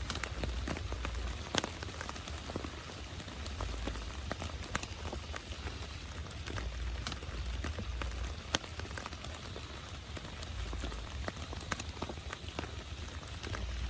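Heavy rain falling steadily, with many individual drops striking close by as sharp ticks and a low rumble underneath.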